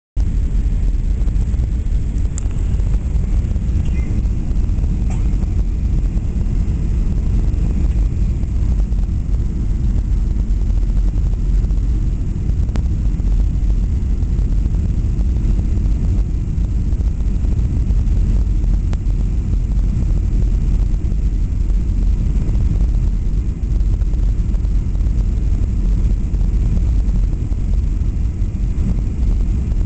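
Steady low rumble of a Boeing 737-800 in flight, its engines and airflow heard from inside the passenger cabin.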